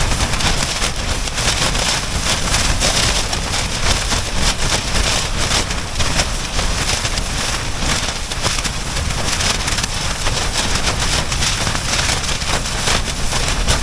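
Blizzard winds battering a Dyneema (DCF) ultralight tent, heard from inside: a steady low rumble of wind, with the fabric flapping and rattling all the time and snow hissing against the shell.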